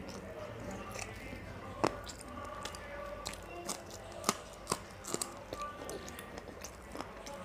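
Wet chewing and lip-smacking from a person eating rice and curry by hand, with sharp mouth clicks, the loudest about two seconds in and again between four and five seconds in. Faint background music runs underneath.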